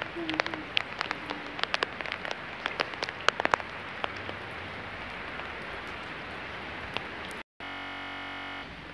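Rain falling: a steady hiss with many sharp splats of drops hitting a surface, thickest in the first few seconds. Near the end the sound cuts out for a moment and about a second of steady, even buzz takes its place.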